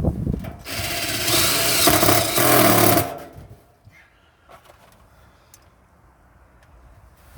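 Power drill running for about two and a half seconds at a steady speed, after a couple of knocks at the start.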